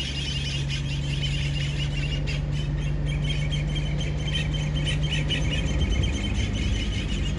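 A chorus of many small birds chirping continuously over a low steady hum and a rumble of wind. The hum shifts a little higher about six seconds in.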